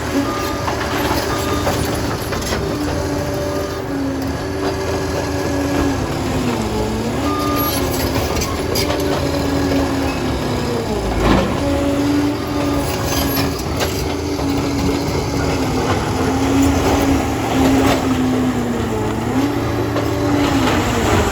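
Liebherr PR 746 crawler dozer's diesel engine working, its pitch dipping and recovering again and again as it takes and sheds load. Scattered metallic knocks from the machine sound through it, the loudest about halfway.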